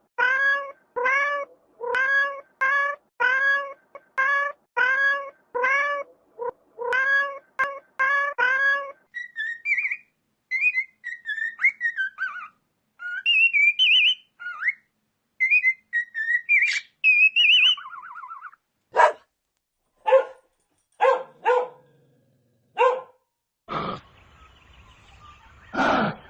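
Several different animal calls one after another: about two short rising calls a second for the first nine seconds, then higher chirping and twittering, then a handful of short sharp calls, and a brief noisy burst near the end.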